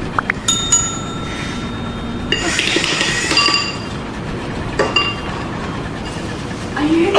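Sharp clinks and a ringing clank, then a clattering crash and a few more clinks, over a steady low rumble. A rising tone comes near the end.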